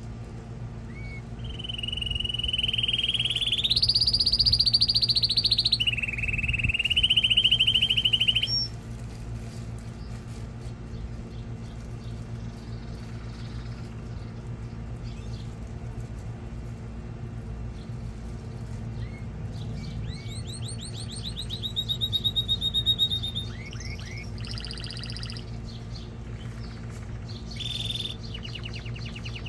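Male canary singing long, rapid trills, one stretch held at a higher pitch. After a pause of about ten seconds comes a second burst of sliding notes and trills, over a steady low hum.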